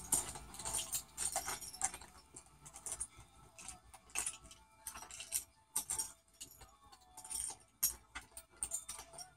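A cockatoo busy working at an object with its beak, making irregular clicks and rattles, several sharp ones close together.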